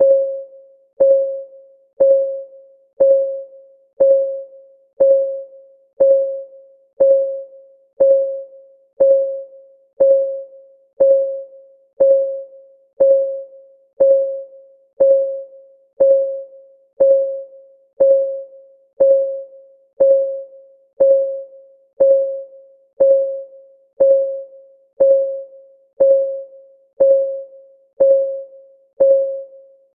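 Clock-ticking sound effect of a countdown timer: one tick every second, steady and even, each a short click with a mid-pitched tone that rings out for about half a second.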